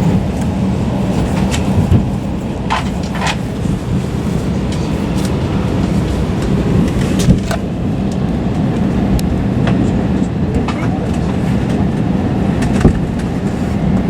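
Steady hum of an Airbus A320's cabin air conditioning while parked at the gate, with a few sharp knocks and clicks now and then.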